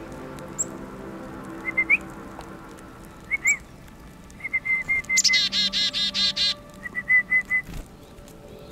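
Tufted titmouse calling: short high whistled notes, then about halfway in a loud rapid run of about eight harsh notes, then a few more quick whistled notes. Soft music plays underneath.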